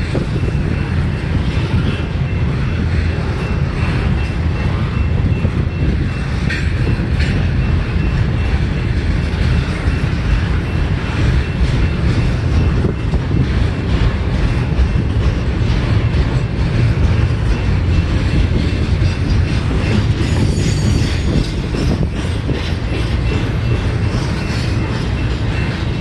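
Freight train's intermodal cars rolling steadily past, wheels clicking over the rail joints, under a heavy low rumble from strong wind gusting on the microphone.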